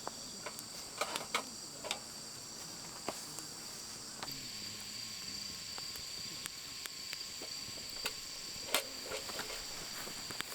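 Steady high-pitched chirring of bell crickets in an autumn night chorus, with scattered light clicks and one sharper tap near the end.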